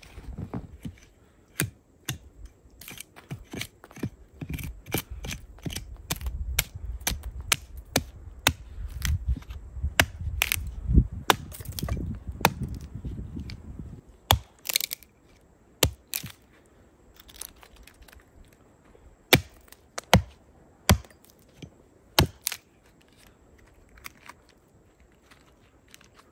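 Dry wood cracking and snapping: a long run of sharp cracks, thick and rapid over about the first half, then spaced-out single snaps.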